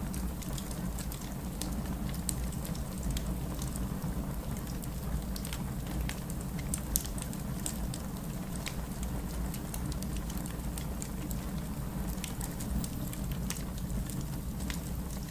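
Wood fire burning in a fireplace: a steady low rumble of the flames with many scattered sharp crackles and pops, one louder pop about seven seconds in.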